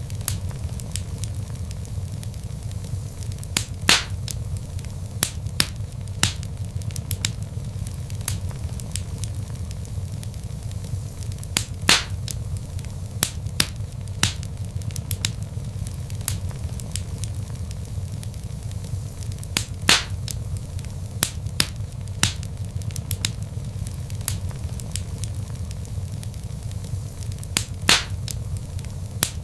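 Wood logs burning in a fireplace: a steady low rumble of flame with constant small crackles and a sharper, louder pop about every eight seconds.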